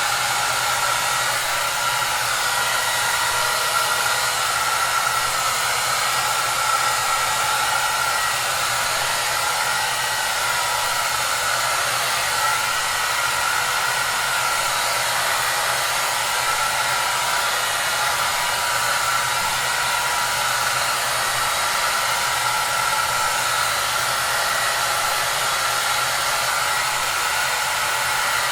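Hair dryer running steadily: an even rushing hiss with a faint steady whine in the middle of its range and a low hum underneath.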